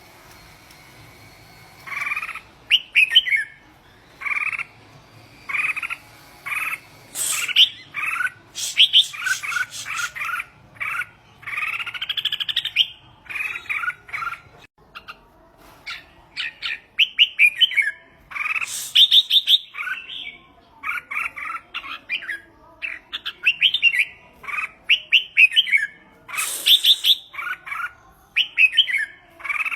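Red-whiskered bulbul singing: short warbled phrases of a few quick notes each, repeated over and over with brief gaps, starting about two seconds in.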